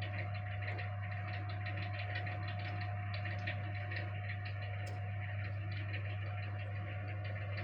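Awning drive motor with an overrunning clutch running steadily, a constant whine over a hum with light rapid ticking as it winds the awning fabric in. The whine stops right at the end.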